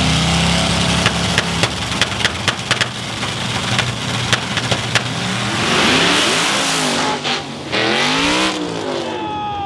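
Drag-racing cars accelerating hard, engines revving up and dropping back through gear changes, with a run of sharp cracks in the first few seconds.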